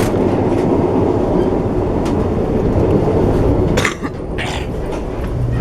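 Steady rumble of an Alaska Railroad passenger train running at normal speed, heard from aboard a car. Just under four seconds in there is a brief rustle and clatter, and the rumble drops to a quieter level.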